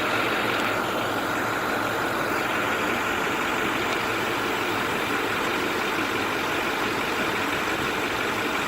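2010 International DuraStar 4300 medium-duty truck's diesel engine idling steadily, with a thin steady whine over it.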